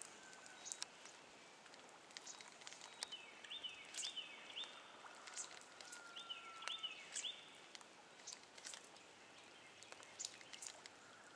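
Birds calling over quiet outdoor ambience: two runs of short, quickly repeated high notes a few seconds apart, with a thin whistle and scattered sharp ticks.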